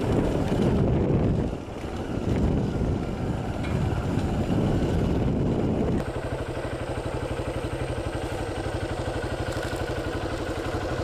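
Motorcycle engine: a loud, rough rushing noise for about the first six seconds, then an abrupt change to a steady, evenly pulsing engine note like idling.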